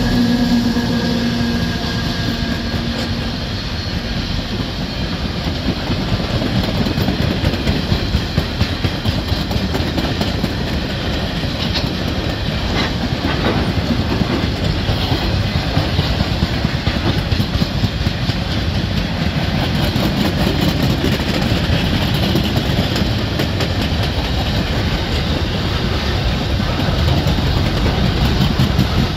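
Long freight train of steel-coil flat wagons and container wagons rolling past at close range: a steady rumble of wheels on rail with rhythmic clickety-clack. In the first few seconds the engine note of the trailing VL-class diesel locomotive fades away as it passes.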